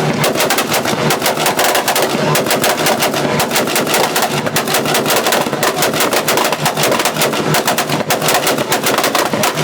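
A car engine held on a two-step rev limiter, its exhaust firing a rapid, unbroken string of loud pops and bangs.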